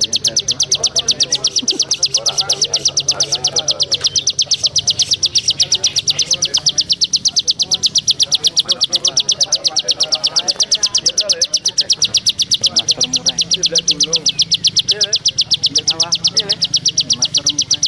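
A cricket chirps in a fast, perfectly even pulse, about six high-pitched pulses a second, without a break. Fainter bird chirps sound beneath it.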